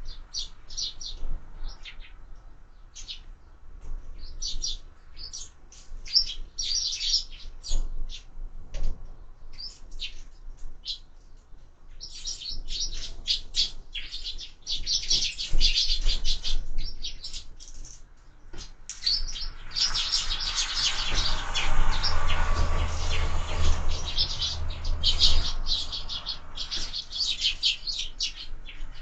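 Sparrows chirping busily at a window feeder, a rapid run of short, high chirps that grows denser about halfway through. Under the chirping, a broader rushing noise swells and fades about two-thirds of the way in.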